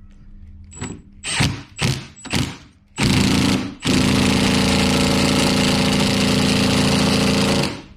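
A few light clicks, then a cordless power tool running a wiper-arm retaining nut down onto its spindle. It runs in one short burst and then a steady run of nearly four seconds that stops near the end.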